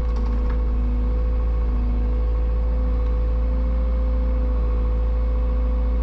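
Excavator engine running at a steady speed, with a constant hum over a low rumble.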